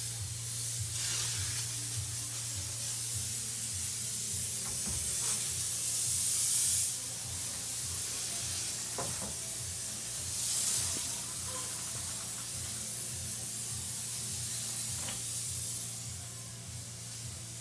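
Sea water rushing and hissing in surges, swelling about three times, over a steady low hum.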